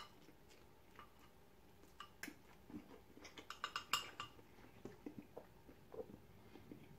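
Faint clinks and taps of a metal fork against a ceramic bowl of noodles while eating, with a quick run of clinks about three and a half seconds in.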